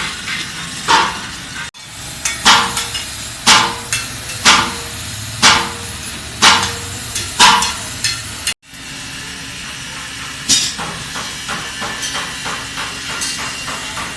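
Hand hammer striking during tractor-tyre repair work, about one blow a second, each with a short ring. Near the end it changes to a run of quicker, lighter taps, about four a second.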